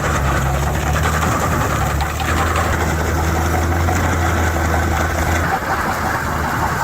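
Vehicle engine running steadily with a deep, even drone. The low drone drops away about five and a half seconds in.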